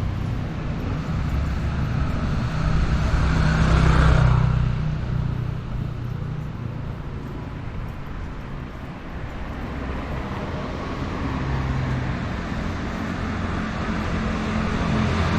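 Street traffic: vehicle engines running and passing. One passes loudest about four seconds in, and another grows louder near the end.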